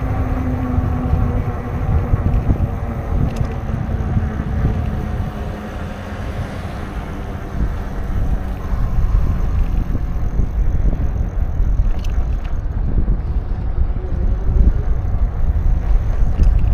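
Wind buffeting the microphone on a moving bicycle, a steady low rumble. A faint motor hum fades out in the first couple of seconds.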